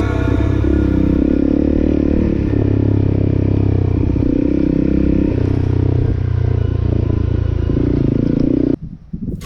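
Motorcycle engine running while riding, its pitch rising and falling several times with changes in speed. It cuts off abruptly near the end.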